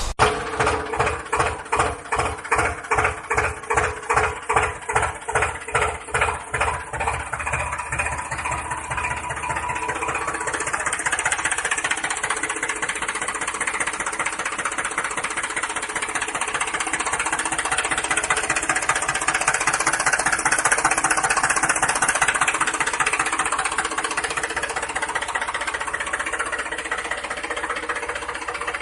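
Tractor engine chugging in slow, even beats that quicken over the first several seconds into a steady, faster run.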